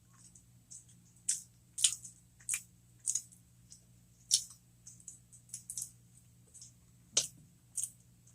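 Close-miked chewing of cheeseburger jalapeño poppers: irregular wet mouth clicks and smacks, about a dozen sharp ones, with the loudest near the end.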